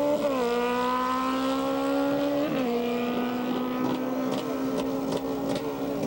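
Racing motorcycle engine accelerating hard through the gears, its note climbing and dropping abruptly at upshifts about a quarter second in and again about two and a half seconds in, then growing weaker.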